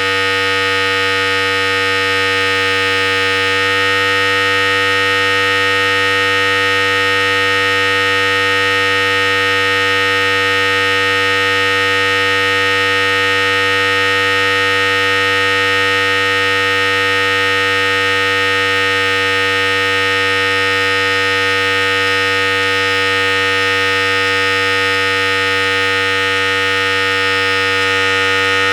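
Philips Series 5000 electric hair clipper running continuously with a steady, even buzz.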